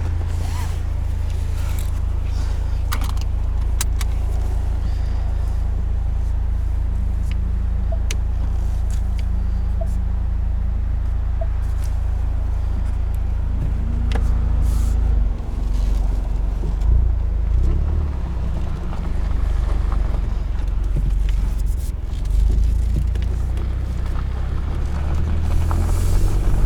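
2020 Ford Mustang EcoBoost's 2.3-litre turbocharged four-cylinder running through its optional active valved performance exhaust with a steady low drone. The pitch rises near the end as the engine revs up.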